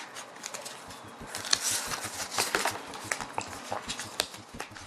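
Pokémon trading cards handled and shifted in the hands, a run of light irregular clicks and rustles of card stock as the cards slide over one another.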